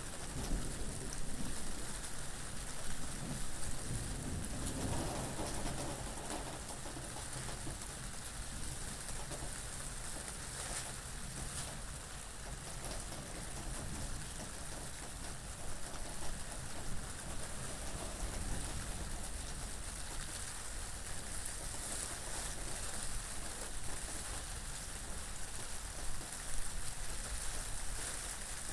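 Steady rain falling, an even hiss, with a low rumble of wind underneath.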